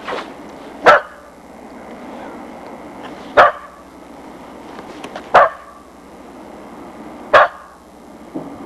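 A dog barking: single loud barks about two seconds apart, four in all, with a softer bark at the start.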